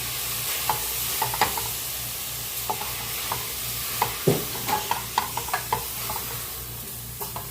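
Garlic and onion sautéing in oil in a pan, a steady sizzle, with short clinks and scrapes of a utensil stirring against the pan.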